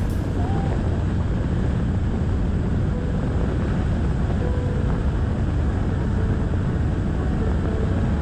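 Steady wind rush on the microphone and road noise from a motorcycle moving at speed, with a low engine drone underneath.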